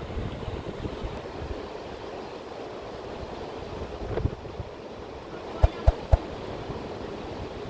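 Steady rushing of river water. Three short knocks come in quick succession a little past halfway.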